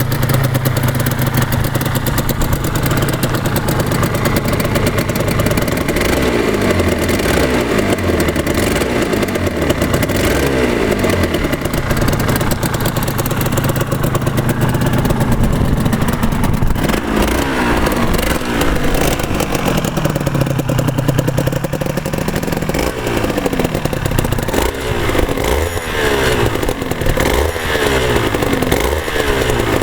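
1989 Suzuki RGV250 two-stroke V-twin engine running after a cold start, with new pistons and rings and the oil pump turned up slightly. It idles steadily at first, then is blipped repeatedly: the revs rise and fall several times, more often near the end.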